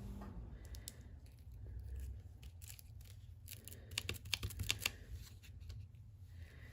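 Faint handling of paper craft pieces: light rustling with scattered short, sharp clicks, bunched together about four to five seconds in.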